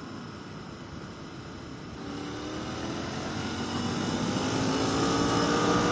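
Motorcycle engine accelerating; from about two seconds in its note rises steadily in pitch and grows louder.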